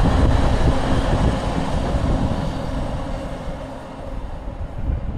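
Train running past on the rails, loud at first, its noise fading away over the last couple of seconds.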